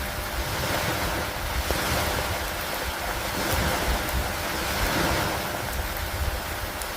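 Stormy lake ambience: a steady wash of rain, wind and water noise that swells and eases every few seconds, over a low rumble.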